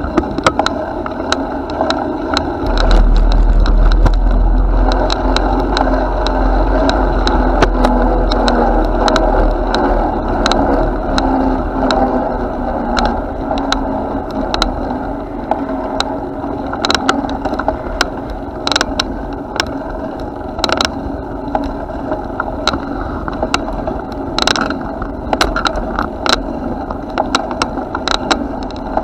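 Bicycle in motion: a steady rolling noise with frequent small rattles and clicks. Heavy wind rumble on the microphone from a few seconds in until about ten seconds.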